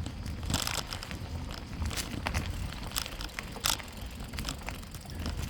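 Bicycle riding along a trail: a steady low rumble with scattered crackles and clicks as the tyres roll over the trail surface.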